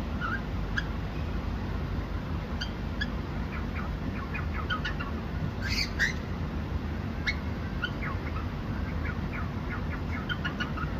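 Cockatiel chirping: many short, scattered chirps, with one louder call about six seconds in, over a steady low background noise.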